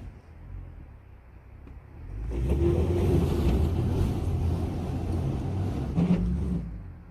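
Jeep Gladiator's engine revving hard for about four seconds, starting about two seconds in, then dropping back to a low idle. The truck is hung up on a rock and straining to drive off it.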